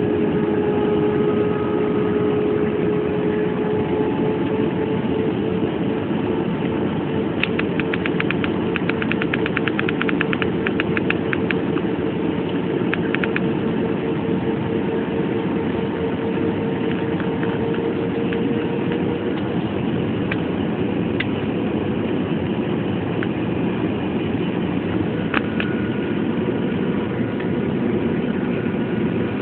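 Airplane in flight: a steady drone of engine and air noise with a held hum that rises slightly in pitch partway through. A run of rapid light ticks sounds for a few seconds before the middle.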